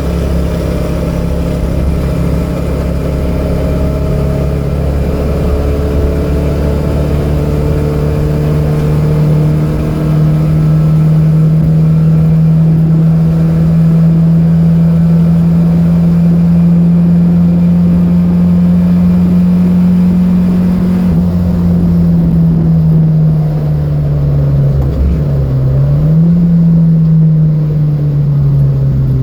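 Datsun B210's four-cylinder engine running hard under load, its pitch climbing steadily for several seconds and then holding high. Later the pitch sags, drops sharply once and climbs back.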